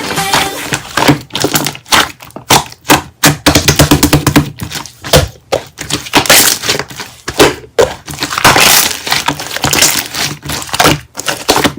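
Slime being squeezed, pressed and poked by hand, giving an irregular run of sharp crackling clicks and pops.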